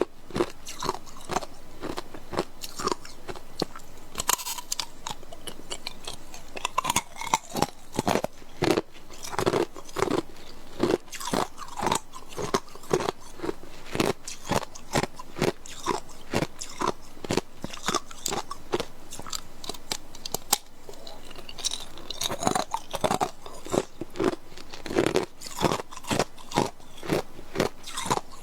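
Hard clear ice cubes being bitten and chewed close to the microphone: a steady run of sharp, crackling crunches, two or three a second.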